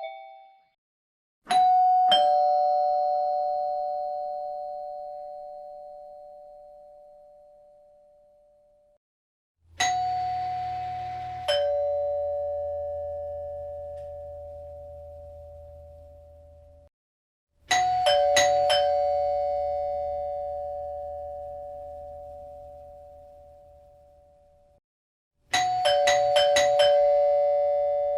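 Two-note ding-dong doorbell chime sounded four times, each a higher note then a lower one that rings out for several seconds. The last two start with several quick strikes before the lower note.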